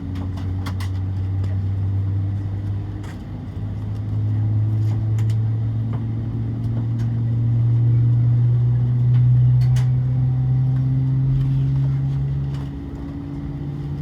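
Airbus A320 jet engines droning, heard from inside the cabin. A low hum rises slowly in pitch and grows louder, then steps up near the end, with a few scattered clicks and rattles.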